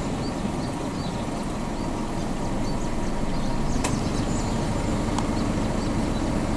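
Steady low outdoor rumble, with faint high chirps repeating over it and a single small click about four seconds in.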